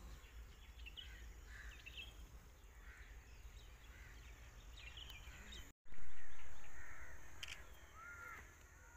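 Birds calling again and again, with short cawing calls, over a low steady rumble of wind on the microphone. The sound drops out briefly about six seconds in and comes back louder.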